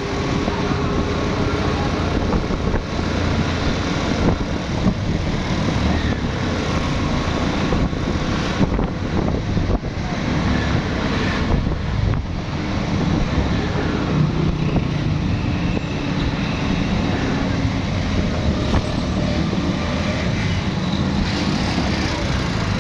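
Steady road-vehicle and traffic noise, a dense rumble that stays even throughout.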